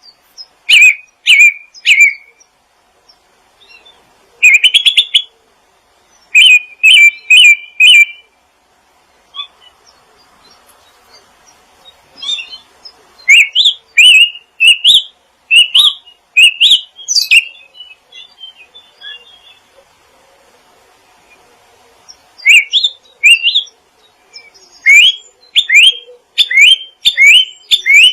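Small songbirds chirping in clusters of quick, loud notes, several of them short upward sweeps, with pauses of a few seconds between the bursts.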